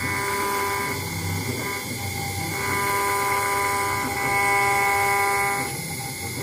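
CNC engraving router's spindle running with a steady whine while it engraves a brass plate. The whine drops away and returns a few times, about a second and a half in and again near the end.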